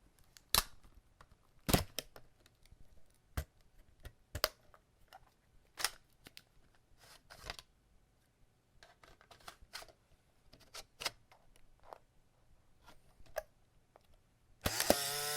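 Camera mechanism clicking: a dozen or so irregular sharp clicks and snaps, the loudest about half a second and near two seconds in. Near the end a loud motorized whir with a steady pitch starts.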